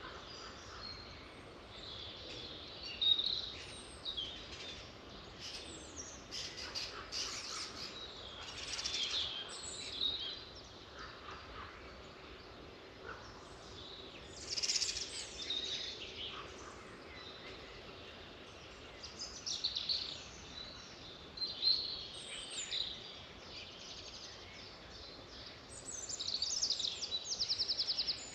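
Several birds singing and chirping over faint background hiss, in repeated high phrases, with a fast rapid trill near the end.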